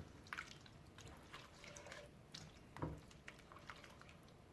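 Creamy mushroom-soup and milk sauce simmering in a skillet, faint bubbles popping at irregular intervals, one a little louder about three seconds in.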